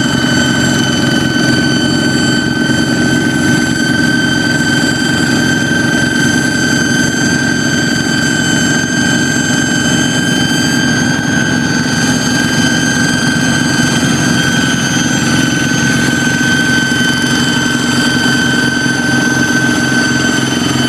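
Kubota hand tractor's diesel engine running steadily with a loud, constant high-pitched whistle over its low chugging, the 'jet fighter' sound it is tuned for.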